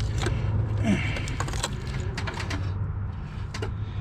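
Scattered light clicks and rattles of engine-bay parts and hoses being handled, over a steady low hum.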